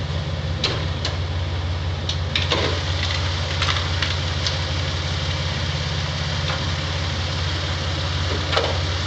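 Toyota 4Runner's 3.4-litre V6 idling steadily, with a few light clicks and knocks over it.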